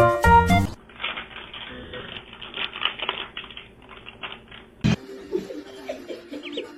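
Rapid, irregular clicking and tapping, like typing on a keyboard, lasting about four seconds. It comes after a moment of piano-like music at the start and stops at an abrupt cut near the end.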